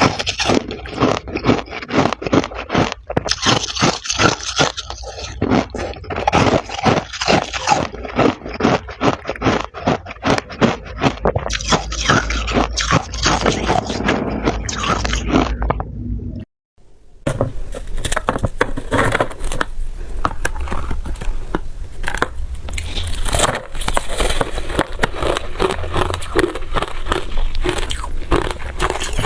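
Freezer frost being bitten and chewed close to the microphone: dense, continuous crunching and crackling that breaks off for a moment a little past halfway, then resumes.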